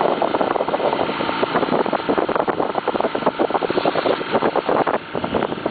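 Continuous rushing and splashing of water as a small sailing yacht moves through the sea, with a fast irregular crackle and no steady engine note.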